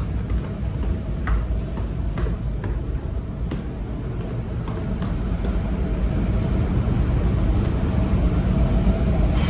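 Steady low engine rumble with a faint hum and scattered clicks and knocks, growing a little louder near the end.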